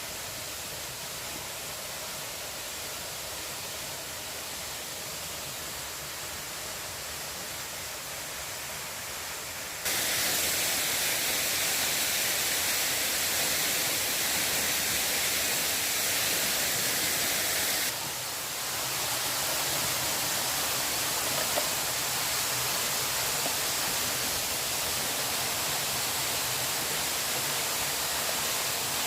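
Steady rushing water noise with no distinct events. It steps up louder about ten seconds in and shifts again around eighteen seconds.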